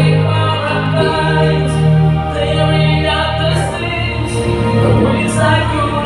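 Music: a singer holding long notes over a backing track, the notes changing every few seconds.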